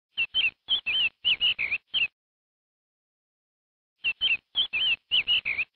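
Small bird chirping: a quick run of high, gliding chirps lasting about two seconds, then a near-identical run again about two seconds later.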